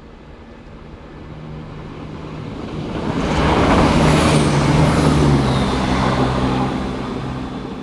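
Diesel train passing close by on the main line: engine hum and rushing wheel noise build up to a peak about four seconds in, then fade as it moves away.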